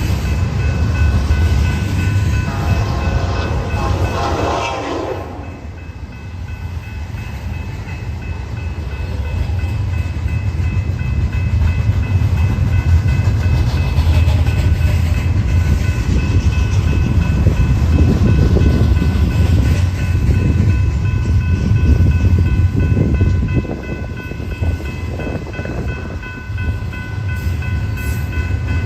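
Train passing on a mainline with a heavy, steady low rumble of locomotive and cars. A train horn sounds in the first few seconds and falls away about five seconds in.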